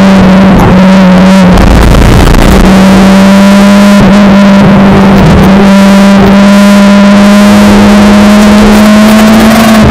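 Honda Civic EP3 Type R's K20A2 four-cylinder engine, with an aftermarket exhaust, running at high revs under load and heard loud from inside the cabin. Its steady drone breaks up briefly about two seconds in, then climbs slowly in pitch.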